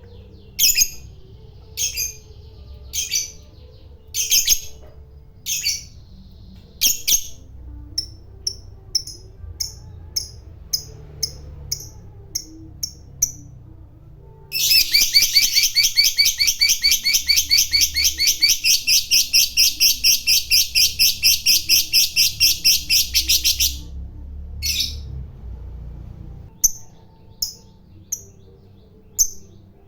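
Lovebird calling: sharp single chirps about once a second, then quicker short chirps. About halfway in comes a long, fast, unbroken chatter lasting some nine seconds, the 'ngekek panjang' of a fighter lovebird, before it goes back to scattered chirps.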